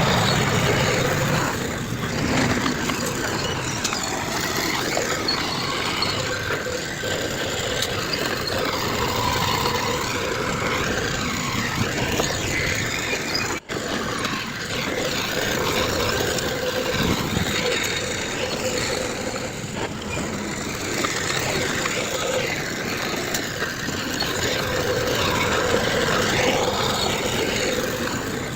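Heavy diesel construction machinery running steadily, with a faint steady whine. The sound cuts out for an instant about halfway through.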